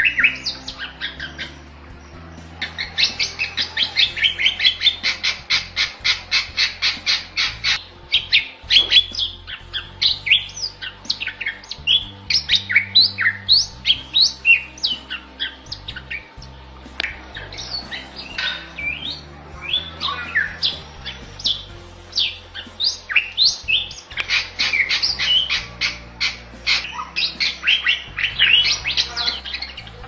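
Bali myna singing energetically and without pause: quick runs of repeated high chirps, one early on and one near the end, with varied whistled and sliding notes between them.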